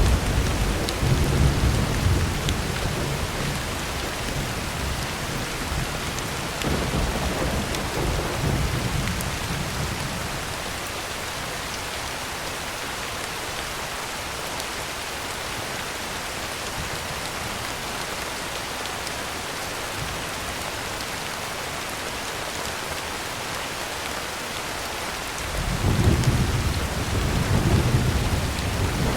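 Heavy rain drumming steadily on a tin roof, with rolling thunder rumbling at the start, dying away, and a new roll of thunder starting near the end.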